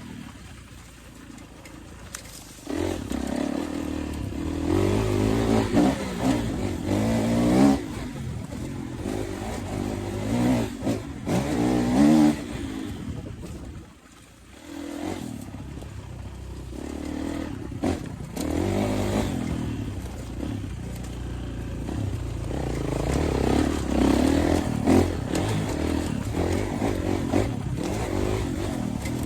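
Kawasaki KX450 dirt bike's single-cylinder four-stroke engine being ridden, revving up and down repeatedly as the throttle is worked. It falls back almost to idle about fourteen seconds in, then picks up again.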